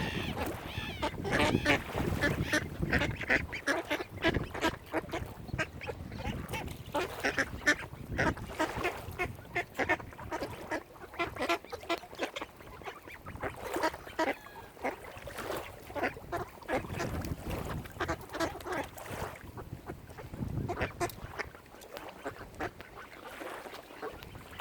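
A flock of waterfowl calling: many short calls, close together and overlapping, with no pause.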